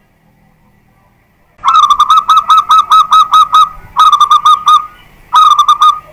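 Zebra dove (perkutut) of a local champion line singing: three bursts of its rapid, clear cooing notes, a long run of about a dozen notes starting just under two seconds in, then two shorter runs after brief pauses.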